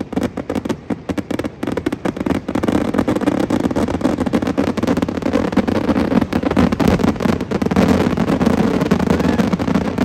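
Fireworks crackling and popping in quick succession over a steady rumble that grows louder about three seconds in.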